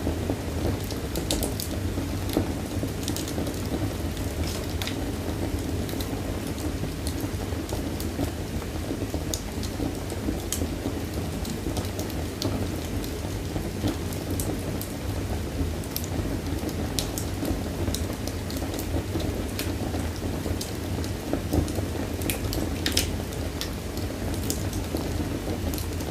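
Wood fire crackling, with frequent irregular sharp pops over a steady low rumble of the flames.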